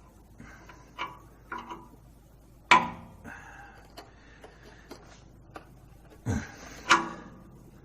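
Metal wrench clicking and knocking against a seized exhaust nut and bracket as it slips on the nut's rounding head. There are several light ticks and two sharp, louder strikes, one about a third of the way in and one near the end.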